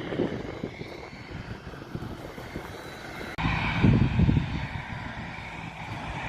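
Airplane engines running with a steady hum; about halfway through the sound changes abruptly and gets louder.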